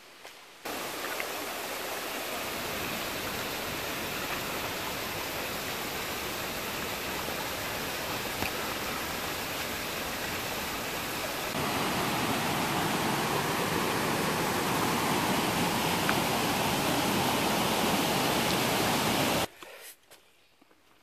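Steady rush of running water at a trail water source. It gets louder about halfway through and cuts off suddenly near the end.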